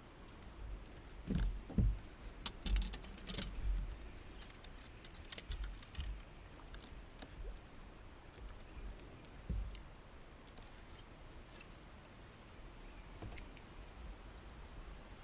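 Scattered small clicks and a few dull low knocks, with a quick run of clicks about two and a half seconds in.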